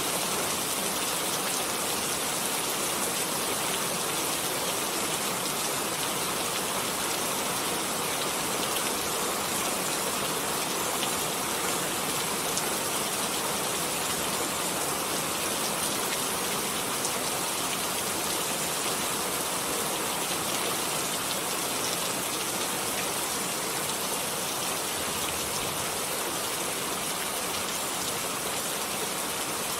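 Steady rain: an even hiss of many falling drops, strongest in the high range, with fine drop ticks scattered through it.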